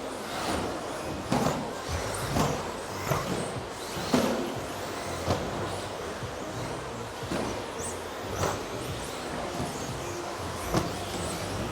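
Radio-controlled model trucks running on a race track, with irregular sharp knocks and clatters roughly once a second, over background music.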